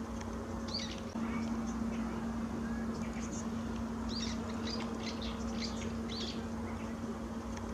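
Small songbirds chirping in short, scattered calls, over a steady low hum.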